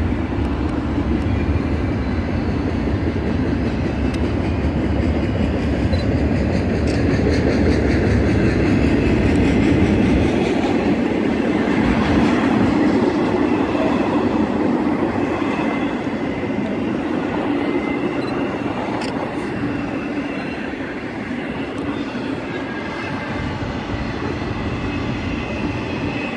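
Intermodal freight train of double-stack container cars and trailer cars rolling past, its steel wheels clacking and rumbling on the rails in a steady, continuous run. A deep low rumble drops away about ten seconds in, and the passing noise eases slightly toward the end.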